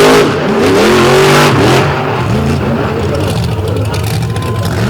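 Monster truck engine revving up and down in quick throttle blips, then settling to a lower, steadier run about two seconds in.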